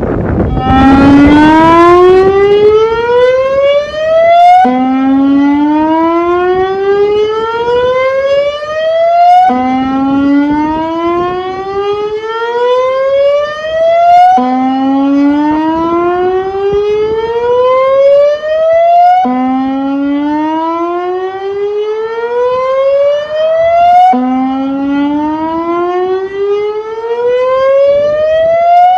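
Severnside outdoor warning siren sounding on test after repair: a loud rising tone that climbs for about four to five seconds, drops back suddenly and climbs again, six times over.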